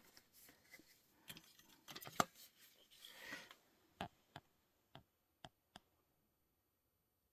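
Small objects being handled close by: light rustling and scattered clicks, then five sharp separate clicks between about four and six seconds in, after which it falls almost silent.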